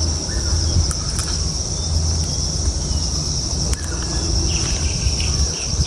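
Insects droning in one steady, high-pitched band, over a constant low rumble.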